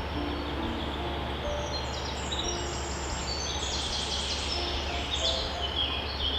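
Small songbirds chirping, many short high notes overlapping into a dense chorus that builds about two seconds in, over a steady hiss and low hum.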